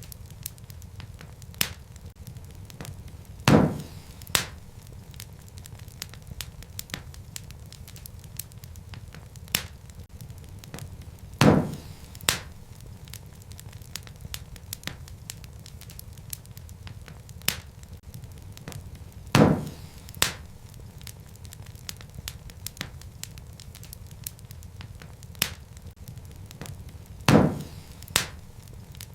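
Wood fire crackling in a fireplace: a steady low rumble of burning logs under many small ticks and crackles. Every eight seconds or so comes a loud sharp pop followed closely by a smaller one, four times in an even, repeating pattern.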